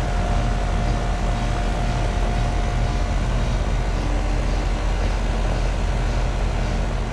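2002 Amana Prestige II central air conditioner's outdoor unit running steadily: a low hum under an even rush of air noise, with a faint high tone that fades out about halfway through. The system is running normally and cooling well.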